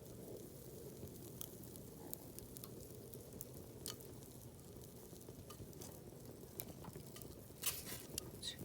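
Campfire burning, the wood crackling with scattered sharp pops and a quick run of louder pops near the end.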